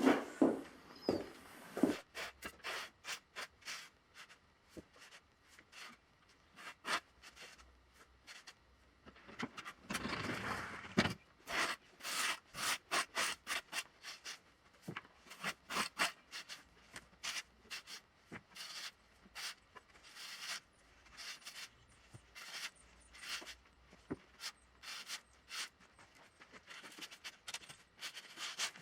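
Repeated short rubbing and scraping strokes, about one or two a second, with a longer, louder stretch about ten seconds in.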